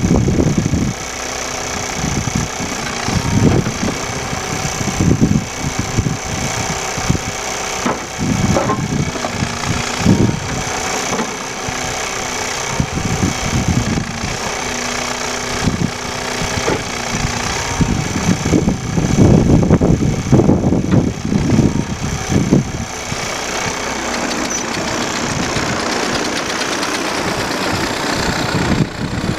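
ASV 4810 tracked skid steer's 105 hp Caterpillar engine running steadily, with frequent irregular low thumps over it, busiest about two thirds of the way through.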